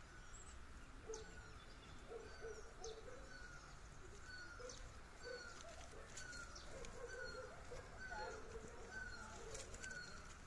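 Faint bird calls: one bird repeats a short falling note roughly every two-thirds of a second, with scattered higher chirps from other birds.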